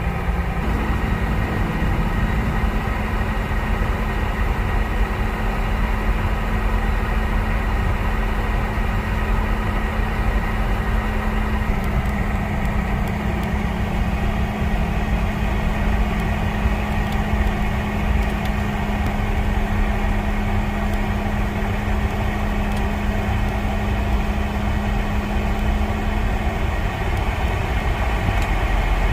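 Cabin noise of a Boeing 717-200 on the ground: the rear-mounted Rolls-Royce BR715 turbofans running at idle thrust with the cabin air hum, a steady low rumble under several steady humming tones.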